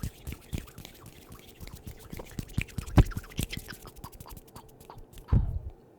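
Brush bristles scratching and tapping right on a microphone, a fast run of crackly clicks with one sharp louder tap about halfway and a heavier thump near the end.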